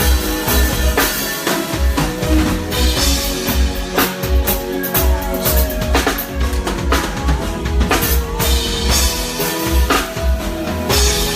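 Live band playing an instrumental passage: drum kit with a steady bass-drum pulse about twice a second and snare hits, under sustained pitched instrument lines.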